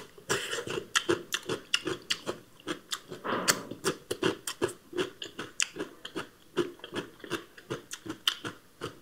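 Close-up chewing of crisp raw radish and cucumber slices: irregular wet crunches, a few each second.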